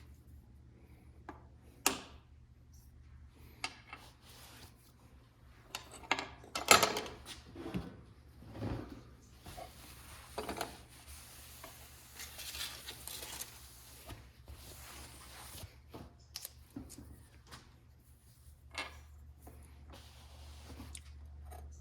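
Small hand-work sounds from restoring an old awl: scattered clicks and light knocks of hard parts being handled and set down, with a few seconds of rubbing about halfway through.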